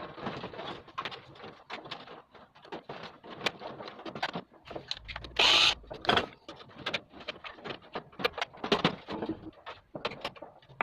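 Irregular clicks, taps and knocks of parts being handled during assembly of a split air conditioner's indoor unit, with one louder harsh scrape or clatter lasting about a second a little past halfway.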